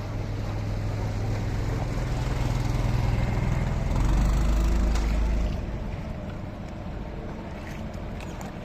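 Motorboat engine running steadily, growing louder and deeper about four seconds in. It drops back to a quieter hum about five and a half seconds in as the boat slows to drift.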